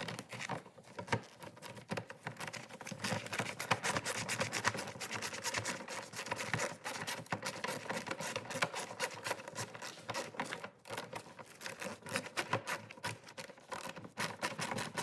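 Socket ratchet clicking fast and steadily, driving through an extension and universal joint as the bolts of a motorcycle's lower fairing are backed out, with a brief pause about eleven seconds in.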